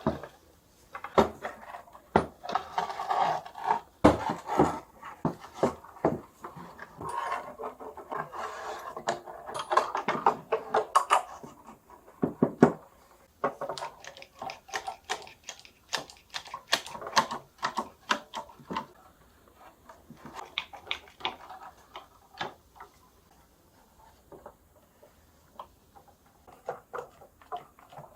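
Irregular clicks, knocks and scraping from hand work on a wooden cello being restored, busiest in the first half with short quiet gaps.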